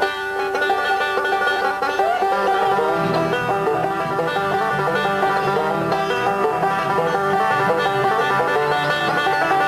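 Banjo played with fingerpicks in quick bluegrass rolls with a melody worked into them, a fast run of plucked notes; lower notes join in about three seconds in.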